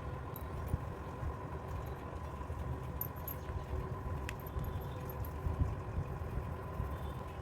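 Steady low machine hum with a faint constant whine over it, and a few faint clicks.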